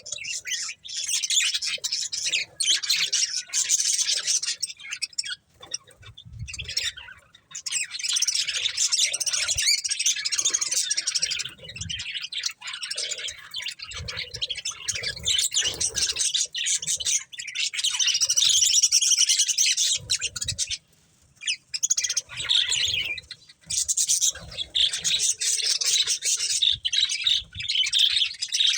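Budgerigars chirping and chattering in fast, continuous warbling bursts, with a few short pauses.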